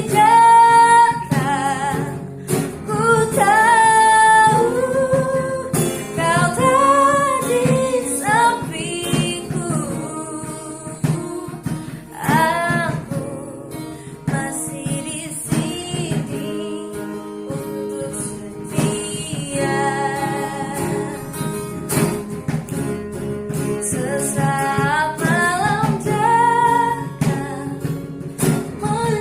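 A woman singing a slow song to acoustic guitar accompaniment.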